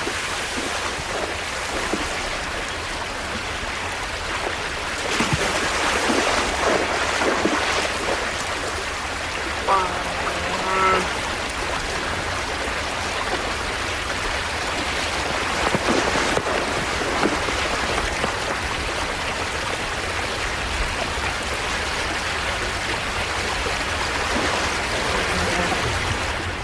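Steady rush of river water. About ten seconds in, a short animal call with several tones sounds over it.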